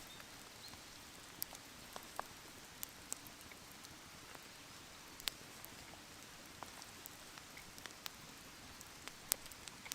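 Meltwater from thawing snow dripping from the trees: scattered, irregular light taps, a few a second, over a faint steady hiss.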